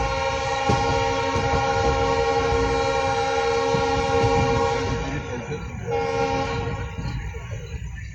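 Locomotive horn of an Indian Railways express train, heard from aboard: one long steady blast of about five seconds, a brief break, then a shorter second blast. Under it runs the low rumble of the coach on the track.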